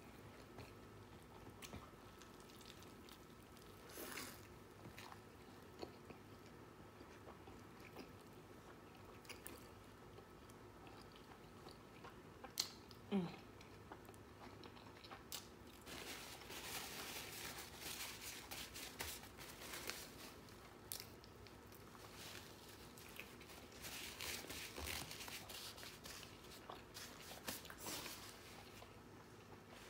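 A person eating close to the microphone: quiet chewing and biting with small crunches and wet mouth clicks. The chewing gets busier and louder about halfway through and again near the end.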